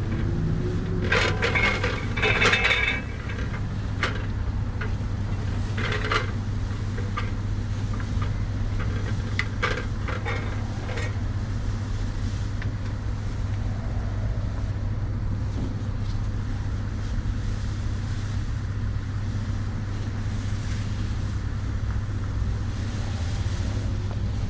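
A steady low engine hum, with a few short knocks and clatters in the first dozen seconds.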